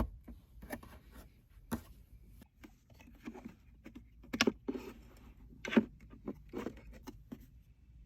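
Irregular clicks, knocks and short scrapes of plastic center console trim being pried and handled in a car interior. Two louder knocks come about four and a half and nearly six seconds in.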